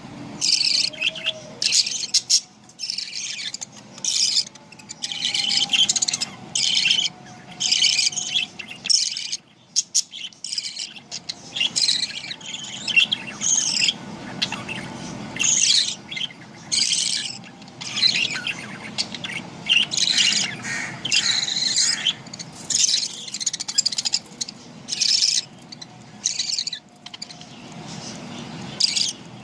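Budgerigars chirping and chattering, a steady stream of short, high-pitched calls with a brief lull about nine seconds in.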